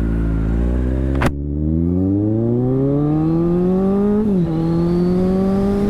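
Kawasaki Z1000SX inline-four sportbike engine accelerating under load, its note climbing steadily, with a sharp click about a second in. Near the end the pitch drops suddenly on an upshift, then starts climbing again.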